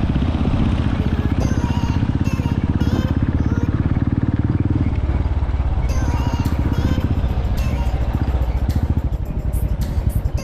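Motorcycle engine running steadily, a fast even pulsing of the exhaust.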